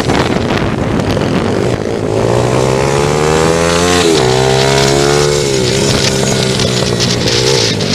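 Pit bike engine revving through a lap: its pitch climbs steadily on the throttle, drops sharply about four seconds in, then rises and falls back twice more.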